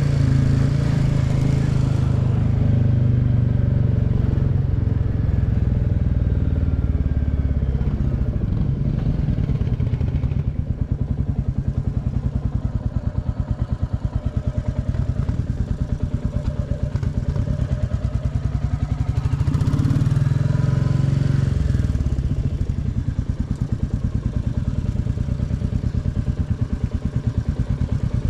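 Royal Enfield Classic 350's single-cylinder engine running on the road. It runs steadily at first, slows to a low, pulsing beat about ten seconds in, picks up again about two-thirds of the way through, then settles back to the slower beat.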